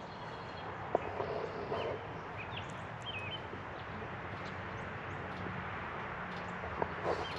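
Outdoor roadside ambience: a steady hiss of passing traffic with a few short bird chirps between about two and three and a half seconds in.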